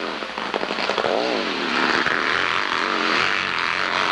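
Racing motorcycle engine revving hard on a hillclimb run, its pitch swinging up and down again and again as the throttle is worked and the rear wheel grabs and spins.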